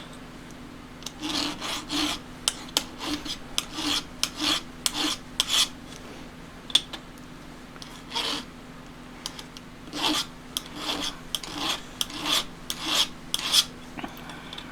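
Flat file rasping across the steel depth gauges (rakers) of a Stihl MS661 saw chain, laid against a 25-thou raker gauge, taking a little metal off each raker to set an even depth of cut. The file goes in runs of short strokes, with a pause in the middle.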